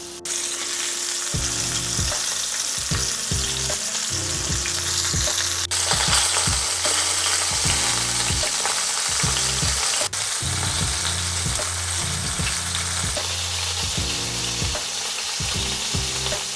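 Breaded fish pieces deep-frying in hot oil, a steady crackling sizzle.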